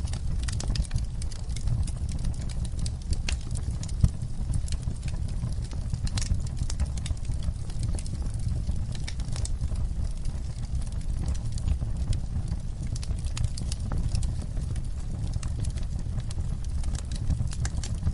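Wood fire crackling: a steady low rumble of the flames with frequent irregular sharp pops and snaps, one louder pop about four seconds in.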